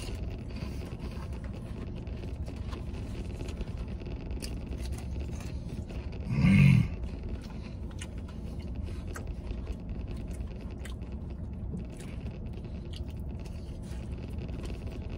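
A man chewing and eating animal-style french fries with his fingers at close range, with small wet crunches and mouth sounds over a steady low hum. About six and a half seconds in he gives one short voiced hum.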